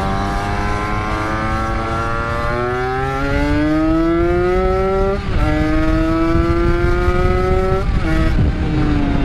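Two-stroke Yamaha RX-King 135cc single with an aftermarket exhaust, accelerating hard: the engine note climbs steadily, drops at a gear change about five seconds in, climbs again, then falls back near the end. Wind rumble sits under it.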